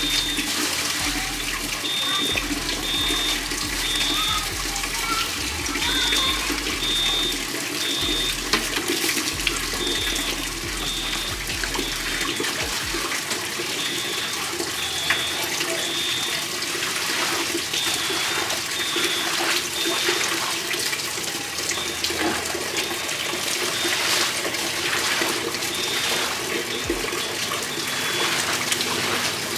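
Water from a leaking fire-sprinkler line pouring and splashing steadily into the apartment. Over it, a high-pitched alarm beeps in groups of three, a group about every four seconds.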